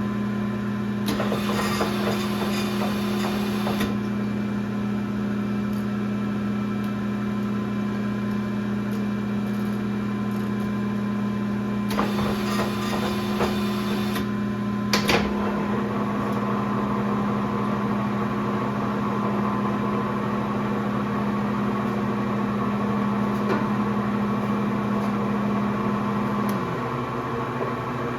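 1966 LeBlond geared-head lathe running with a steady hum. Two spells of hiss come about a second in and again at about twelve seconds, a sharp click follows at about fifteen seconds, and the hum drops slightly in pitch near the end.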